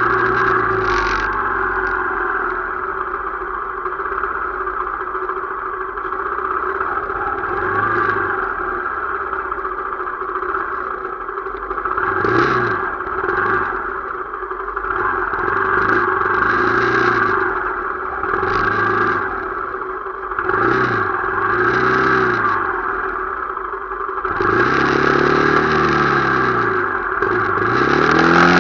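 Motorcycle engine running steadily on the road. From about halfway in, engine sounds swell up and fall back in pitch again and again, about once a second.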